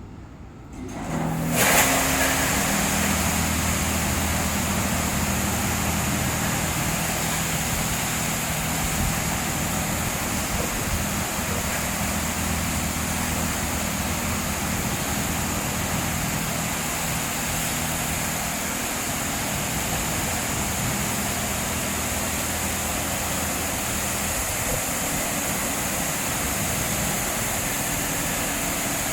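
Leisuwash 360 touchless car wash machine starting up about a second and a half in, then running steadily: a loud hiss over a constant motor hum.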